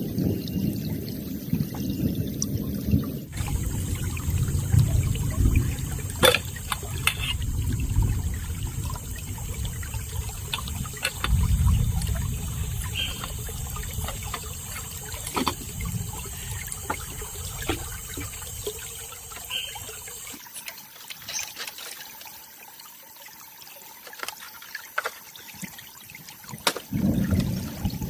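Water trickling and splashing, with a low rumble and scattered small clicks; the rumble drops away about twenty seconds in and the sound becomes quieter.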